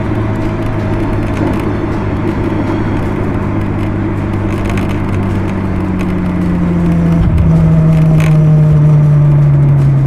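Ferrari F12 Berlinetta's 6.3-litre V12 heard at the exhaust, cruising at light throttle along with tyre and road noise while the engine is still warming up. Its note changes step about seven seconds in and grows a little louder towards the end.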